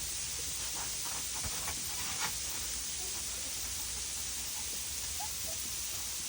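Steady background hiss with a low rumble, with a few faint clicks and taps in the first couple of seconds.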